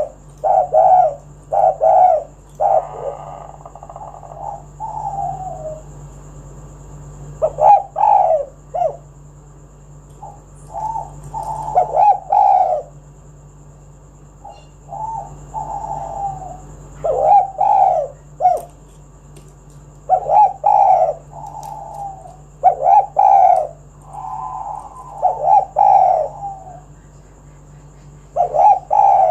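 Spotted dove cooing in repeated phrases of short, low notes, with a pause of a second or more between phrases.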